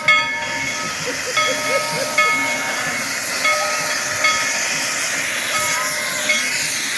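Steam locomotive hissing steam while its bell rings, a clang about once a second. The hiss grows stronger toward the end.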